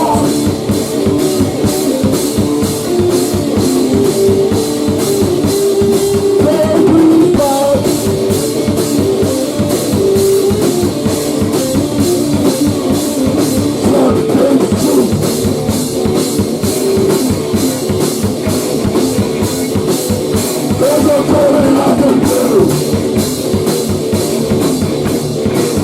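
Grunge/hardcore rock band playing: guitar over a drum kit keeping a steady beat on the cymbals.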